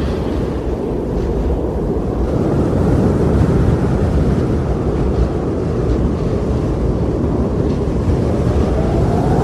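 Outdoor nature ambience: a steady, low rushing noise, with a faint tone rising near the end.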